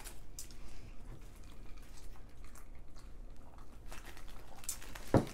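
Chewing and biting into fried chicken wings: soft, wet mouth clicks and small crunches throughout. A short thump about five seconds in.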